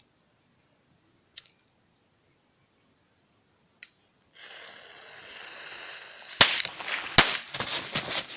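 A firecracker fuse hissing for about two seconds, then two sharp bangs and a run of rapid crackling pops as the firecrackers go off.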